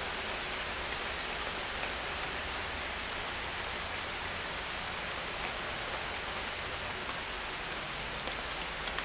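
A small songbird's high, thin call, a quick run of notes falling in pitch, heard twice about five seconds apart, with a few fainter single notes between, over a steady hiss.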